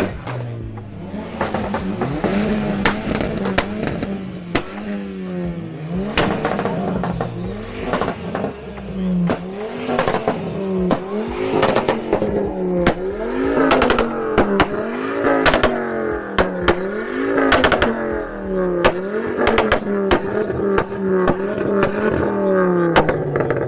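A car engine revved over and over, its pitch climbing and dropping about once a second, with sharp exhaust pops and cracks throughout.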